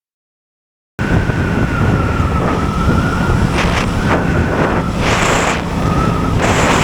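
Motorcycle riding noise that cuts in suddenly about a second in: the Aprilia Tuono 660's engine running under way, with wind rushing over the microphone and a thin, steady high whine.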